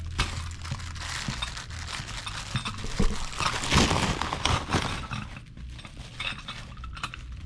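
Packaging crinkling and rustling with light clinks as it is handled and opened, busiest around the middle and quieter near the end.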